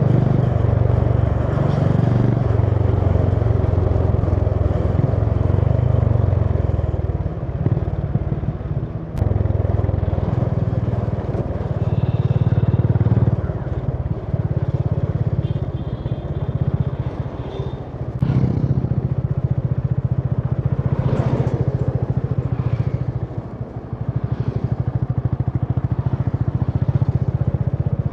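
Honda CB350 H'ness's air-cooled single-cylinder engine running under way, heard from the rider's position. The engine note falls away and picks up again several times.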